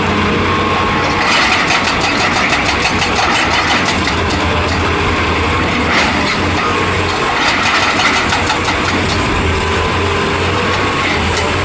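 Excavator's diesel engine running, with a hydraulic breaker hammering in a fast, even rhythm that starts about a second in and keeps on until near the end.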